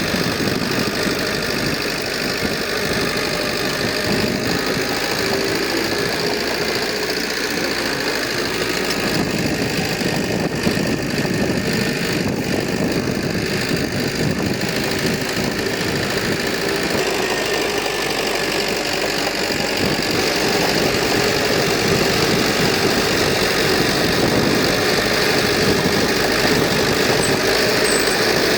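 Diesel engine of heavy earthmoving equipment running steadily under work, getting a little louder about two-thirds of the way through.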